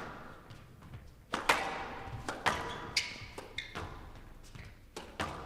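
Squash ball struck by rackets and hitting the court walls during a rally: sharp cracks roughly every second, the loudest about a second and a half in, with brief squeaks between them.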